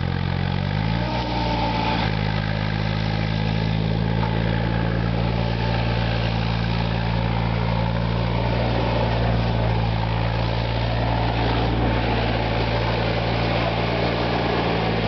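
SAME Tiger 60 4x4 tractor's diesel engine running; its revs pick up about a second in, then it runs at a steady speed.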